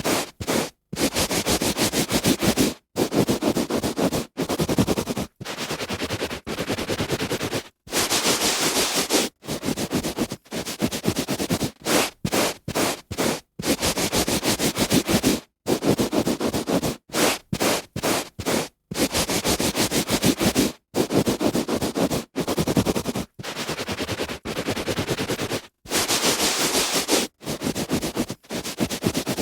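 A hand rubbing back and forth on a carpet: a series of scratchy rubbing strokes, some short and some up to about two seconds long, each separated by a brief silent gap.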